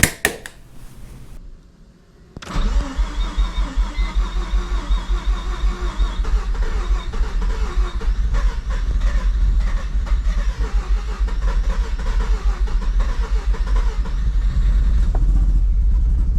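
Mazda RX-7 FD's turbocharged rotary engine starting up, catching about two and a half seconds in, then running at an uneven, pulsing idle. It is a start after the car has sat unused for a long time.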